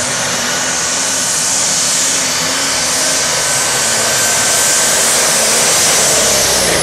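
Competition pulling tractor's engine at full throttle, heard as a loud, steady rush that grows slightly louder toward the end.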